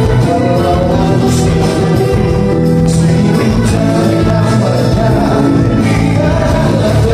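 Live band playing a song, with a singer's voice over the instruments and cymbal strokes cutting through.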